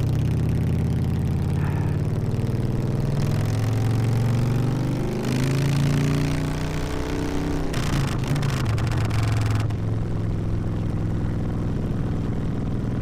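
Harley-Davidson V-twin motorcycle with a loud exhaust, running under way, its pitch rising and falling with the throttle. Two stretches of rushing noise around the middle.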